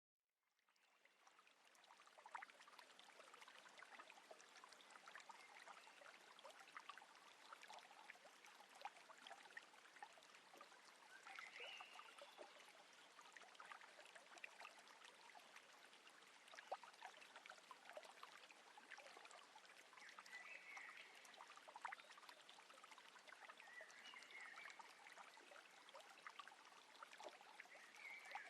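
Faint water lapping and trickling along a small boat on calm water: a soft steady hiss dotted with many small ticks and splashes, fading in over the first couple of seconds. A few brief high chirps come in now and then.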